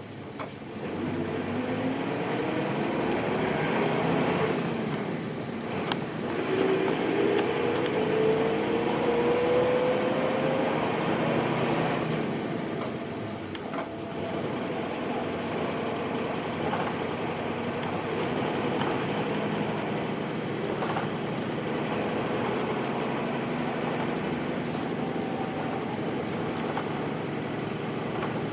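Nissan Diesel Space Runner RM bus with its FE6 inline-six diesel engine, heard from inside while under way. The engine note rises as the bus accelerates, breaks off for a gear change about six seconds in, and climbs again. After about twelve seconds it settles into steadier running.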